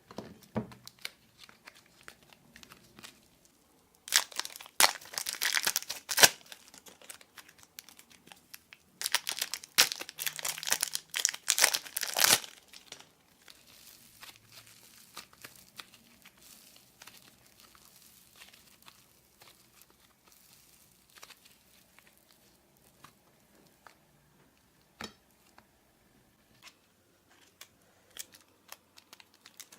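Packaging crinkling and tearing in two loud spells of crackling, the first about four seconds in and the second about nine seconds in, each lasting a few seconds. After them come only faint scattered clicks.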